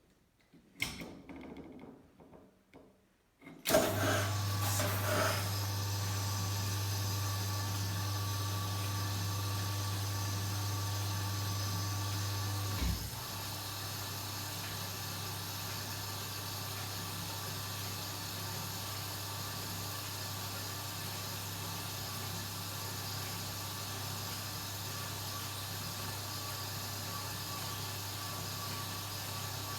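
Kenwood washing machine starting: a few clicks, then about four seconds in a steady low machine hum sets in. Near the middle a click comes and the hum steps down slightly, then runs on evenly.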